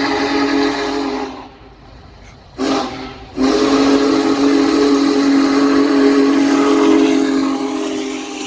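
Union Pacific Big Boy 4014's steam whistle sounding a chord of several tones. A blast cuts off about a second in, a short toot follows, then a long blast fades away near the end.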